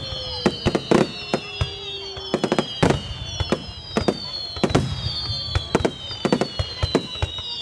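Fireworks shells bursting in quick succession, sharp bangs several a second at an uneven pace, each with a short echo. Several high whistles fall slowly in pitch through them.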